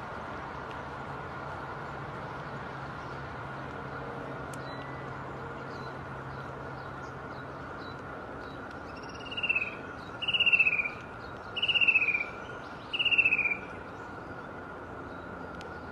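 Steady background hiss with faint high bird chirps; about nine seconds in, a bird gives four loud calls, each sliding downward, roughly a second apart.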